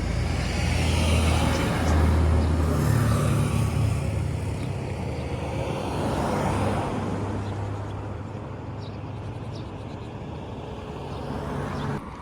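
Vehicle engine running steadily, a low hum under a haze of wind and traffic-like noise, easing off somewhat in the second half.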